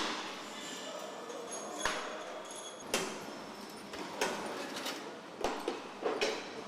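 Factory assembly-line noise: a steady background hum broken by several sharp knocks and clanks, coming closer together toward the end.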